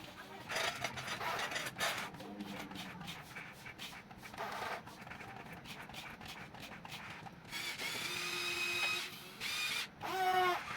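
Small electric gear motors of a Huina 1550 radio-controlled toy excavator whirring in short runs, with clicks and rattling. A steadier whine runs from about eight to nine seconds in.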